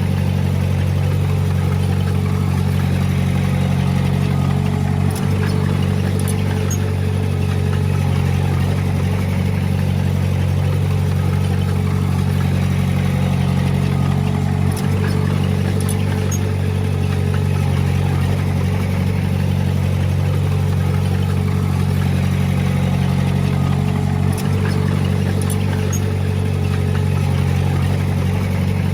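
Diesel engine of heavy earth-moving equipment running steadily at a constant speed, with a short knock about every ten seconds.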